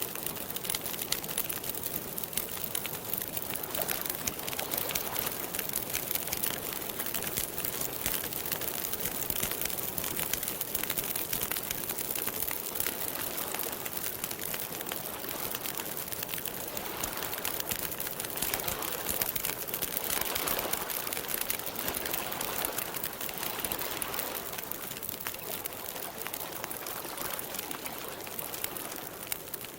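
Wood campfire crackling steadily, a dense run of small pops and snaps.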